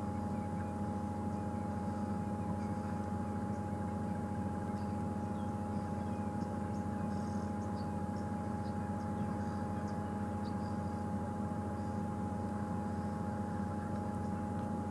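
Safari game-drive vehicle's engine running steadily, an even hum that doesn't change, with a steady high tone on top.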